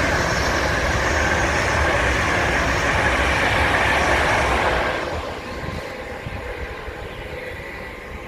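Train running past on the line, a loud rushing rumble that drops away about five seconds in and fades to a quieter rumble.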